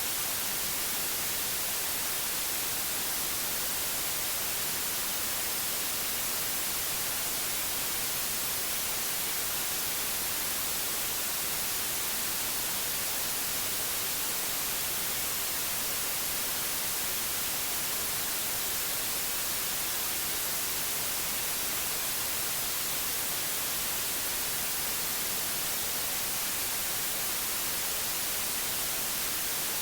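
Steady white noise: an even, unbroken hiss, strongest in the highs, with no change in level.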